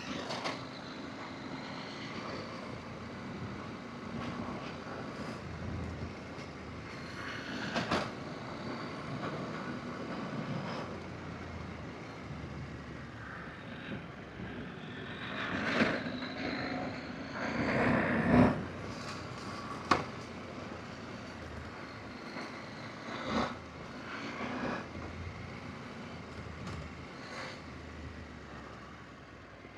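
Adventure motorcycle riding a rough dirt forest road: steady engine and wind noise, broken by several sharp knocks and clatters as the bike hits bumps hard on its short-travel front forks.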